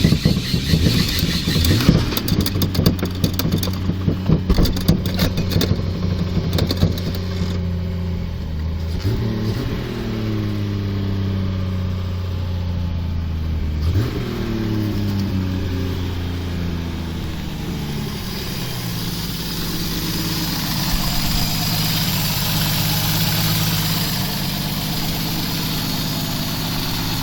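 Jeep Cherokee engine running shortly after a cold start: it runs unevenly with irregular crackling for the first few seconds, is revved twice (pitch rising, then falling back) about a third and a half of the way in, and then settles into a steady idle.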